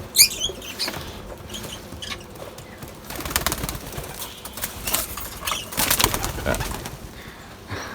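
Pigeon beating its wings in flurries of flapping and rustling while being chased to catch it, with a few bird chirps near the start.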